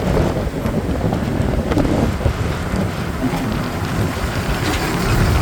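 Wind buffeting the microphone over a steady rumble of road and traffic noise, heard from a moving motorbike.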